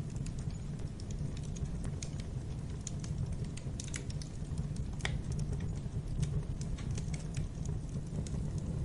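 Wood fire crackling in a fireplace: irregular small pops and snaps over a steady low rumble of the flames, with one louder pop about five seconds in.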